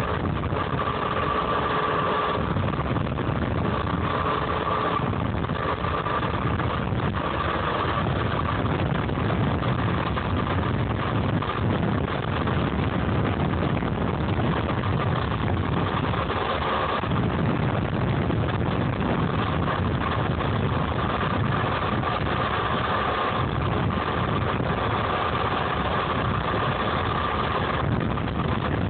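Homemade DC-powered electric dirt bike running under way: a high motor whine that comes and goes every few seconds over a steady noisy rush.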